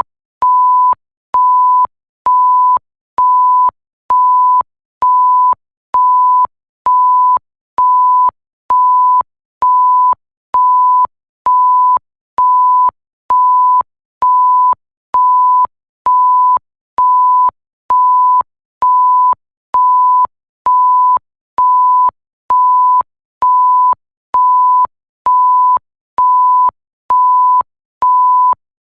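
Electronic bleep: a single pure, steady tone switched on and off in an even rhythm, a little faster than one beep a second, each beep about two-thirds of a second long with short silent gaps and a faint click at each start and stop.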